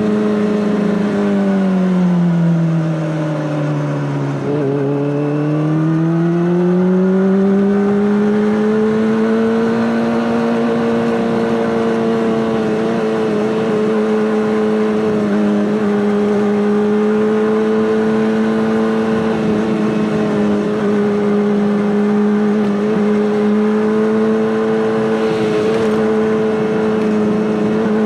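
Honda CBR600RR inline-four engine running through an Akrapovic exhaust at steady revs; the revs drop a few seconds in, then climb back and hold steady.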